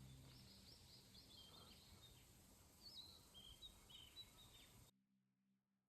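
Faint outdoor birdsong: short, quick chirping notes repeated over soft background hiss, after the last of the background music fades out at the start. The sound cuts off suddenly about five seconds in.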